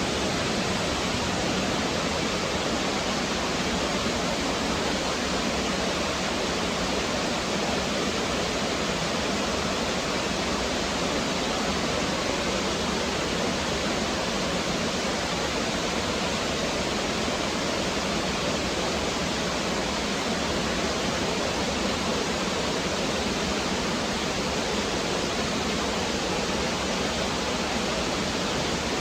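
A woodland stream's flowing water, a steady, unbroken rushing.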